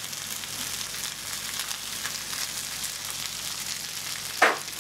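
Noodles and vegetables sizzling and frying in a hot wok, stirred with a metal spatula. One brief, loud knock near the end.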